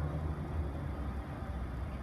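Freight train led by 81 class diesel-electric locomotives, their engines giving a steady low rumble.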